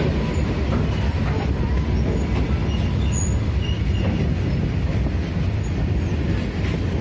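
BOXN open freight wagons of a passing freight train rolling by close at hand: a steady rumble of steel wheels on the rails, with a few faint knocks.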